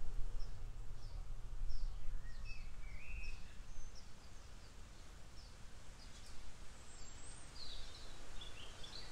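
Small birds chirping: a run of short high chirps repeated about twice a second, then a few varied, slurred notes, over a low steady rumble that eases after about three seconds.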